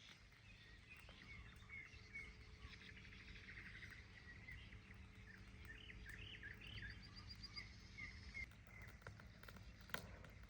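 Small birds chirping and trilling faintly, with many short calls and a couple of quick high trills, over a low steady rumble. A single sharp click comes near the end.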